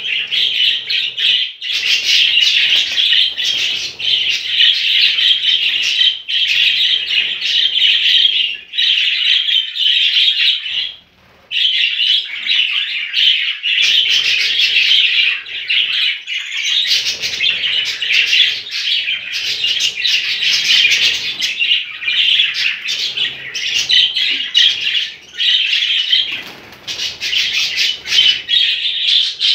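Several budgerigars chirping and chattering continuously, with a short lull about eleven seconds in.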